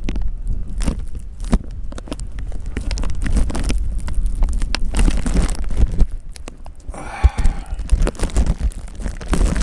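Wind buffeting the microphone in a steady low rumble, with scattered crackling clicks from the bag wrapped around the camera being handled.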